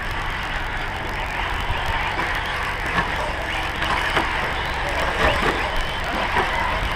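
A pack of four-wheel-drive RC short-course trucks racing, their small two-stroke engines buzzing together and revving up and down as they accelerate and brake around the track.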